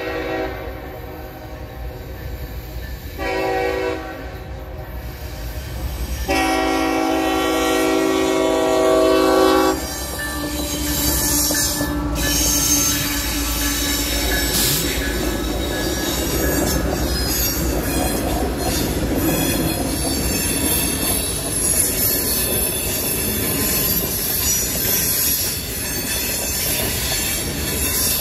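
CSX diesel locomotive horn sounding the end of a grade-crossing signal: a long blast that ends about half a second in, a short blast about three seconds in, then a long blast from about six seconds to nearly ten. The locomotives then pass close by, followed by loaded coal hoppers rolling past with a thin high squeal from the wheels.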